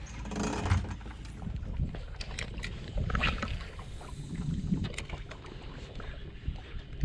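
Small fishing boat on the water: an uneven low rumble of wind and water noise, with a few light clicks and knocks.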